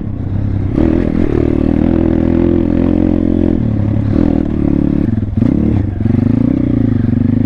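Thumpstar 140cc pit bike's single-cylinder engine running under load as it is ridden over a rough, muddy trail, revs rising about a second in, dropping around the middle, dipping briefly and climbing again near six seconds, with clattering from the bike.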